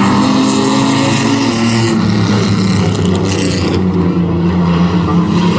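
A field of Renegade race trucks at full throttle just after the green-flag start, several engine notes overlapping and running steadily. About three seconds in there is a brief rush of noise as trucks pass close.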